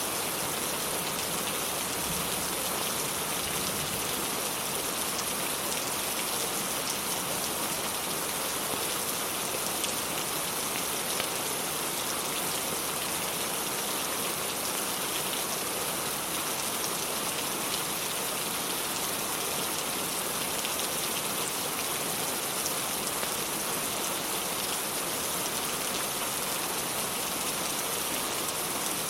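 Steady rain falling, an even hiss of many drops with no change in level.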